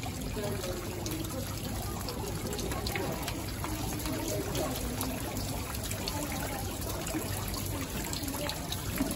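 Rain falling, with water trickling and dripping off a wet stone wall ledge: a steady hiss sprinkled with many small drip ticks.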